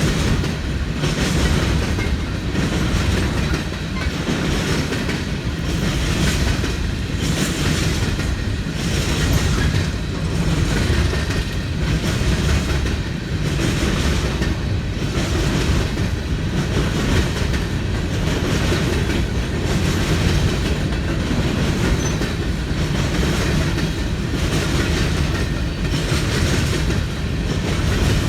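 Freight train cars rolling past at close range: a steady rumble of wheels on rail, with a recurring clickety-clack of wheels crossing rail joints.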